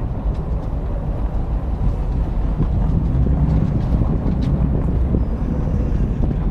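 V8 muscle car engine running with a low, steady rumble.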